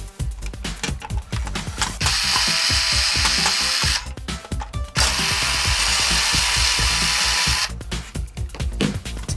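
A small power tool running in two bursts of about two to three seconds each, with quick ratchet-like clicking before, between and after, over background music.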